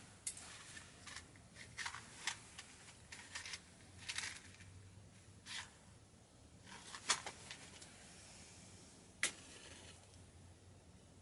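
Wood-burning stove fire crackling: irregular crackles with a few sharp pops, the loudest about 7 and 9 seconds in.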